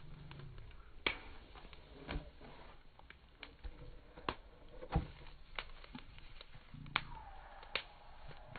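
Campfire burning, the wood crackling with irregular sharp pops, a few of them loud.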